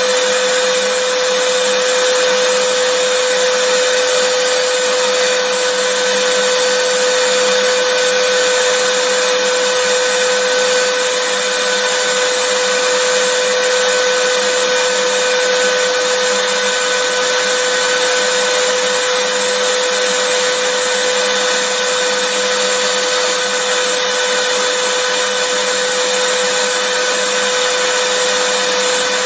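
Vacuum cleaner running steadily: an even rush of air with a constant motor tone, unchanging throughout.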